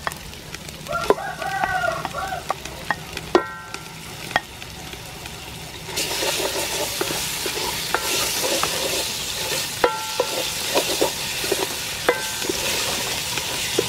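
Chopped dried red pepper paste frying in hot oil in a large metal pot, stirred with a wooden spatula. The sizzle grows much louder about six seconds in, and several knocks of the spatula against the pot ring briefly.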